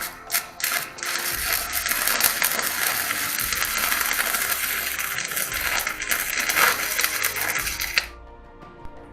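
Stick (manual arc) welding of steel with MR-3 electrodes: a few short arc strikes, then a steady crackling, frying arc for about seven seconds that stops abruptly near the end.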